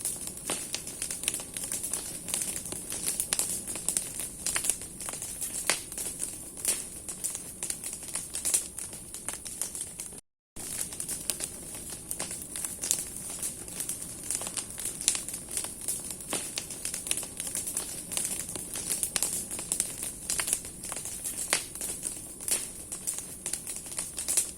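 Large bonfire of burning branches, the wood crackling with dense, irregular sharp snaps over a steady hiss. The sound cuts out completely for a moment about ten seconds in.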